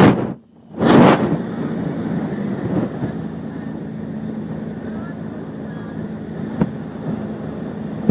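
Motorboat engine running at a steady drone. The sound drops out briefly at the start, and there is a loud rush about a second in.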